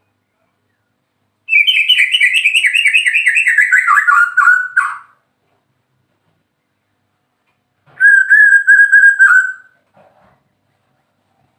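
White-rumped shama singing two rapid trilled phrases: the first, about three seconds long, slides down in pitch, and the second, shorter one holds a steady pitch.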